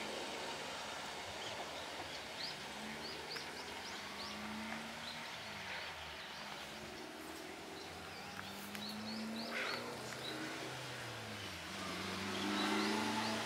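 Short, high bird calls in quick little runs over a steady outdoor background hum. A motor vehicle hums past near the end, when the level rises.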